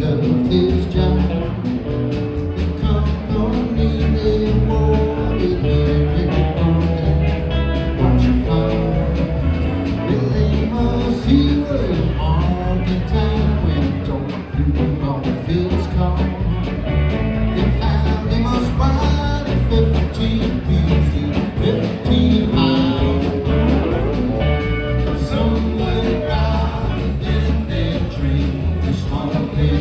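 Band music in a country and rock-and-roll vein: guitar over a steady, heavy bass beat.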